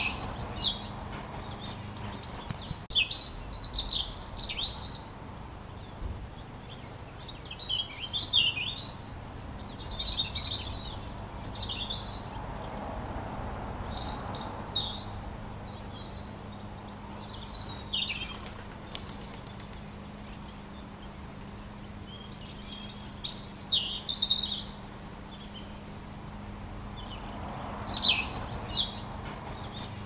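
Birds singing in repeated bursts of quick high chirps and whistles, a few seconds apart with short pauses between.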